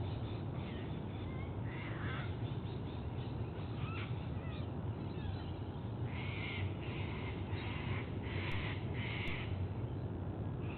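A bird calls five times in quick succession about six seconds in, with fainter short calls before, over a steady low rumble.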